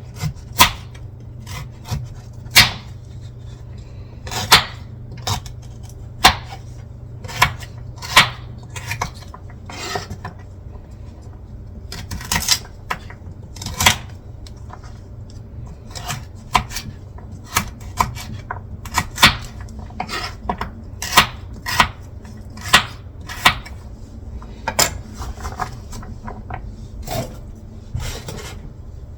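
Knife chopping rutabaga on a cutting board: irregular sharp chops, roughly one or two a second, over a steady low hum.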